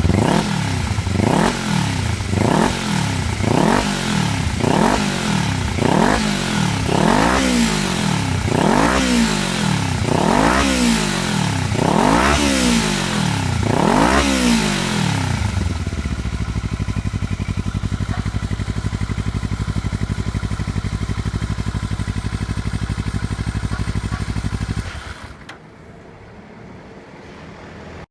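Kawasaki Ninja 400R parallel-twin engine through a WirusWin Real Spec slip-on muffler, blipped about a dozen times in quick succession, each rev rising and falling. It then settles into a steady idle for about ten seconds before the engine sound stops near the end.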